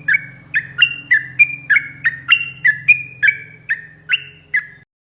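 Yellow-vented bulbul (trucukan) singing a fast, unbroken run of loud, short, liquid notes, about three a second, the rapid continuous 'ropel' song used to train cage birds. The song cuts off suddenly near the end.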